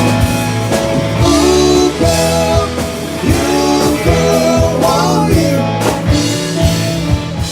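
Rock song with singing, guitar and drums playing on a car radio.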